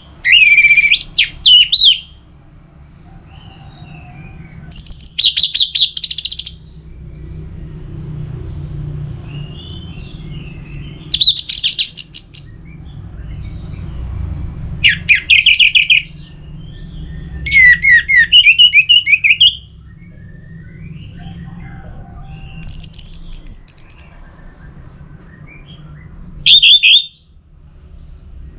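Orange-headed thrush singing: about seven loud phrases of quick, varied notes, each a second or two long and separated by pauses of a few seconds, over a steady low background rumble.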